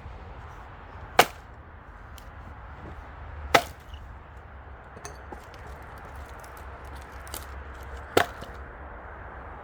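A heavy axe striking black locust logs being split for firewood: three sharp chopping blows, about 1 s, 3.5 s and 8 s in.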